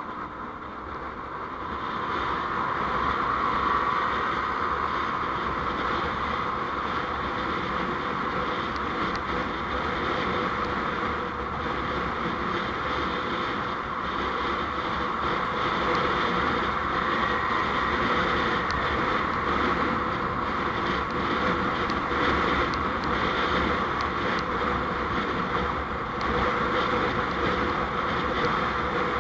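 A vehicle's engine and road noise as it drives along. The sound rises about two seconds in as it pulls away from idling, then runs steadily.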